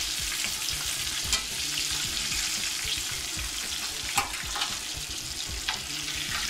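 Breaded chicken wings frying in hot oil in a cast-iron skillet: a steady, dense crackling sizzle. A few sharp clicks of the metal tongs cut through it as wings are lifted out onto a wire rack.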